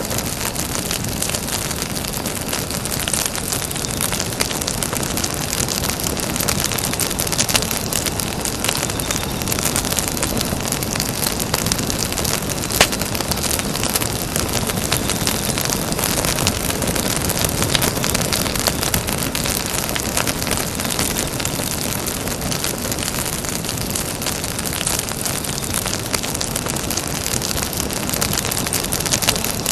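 Campfire burning with a steady crackle and hiss of many small snaps, and one louder pop about 13 seconds in.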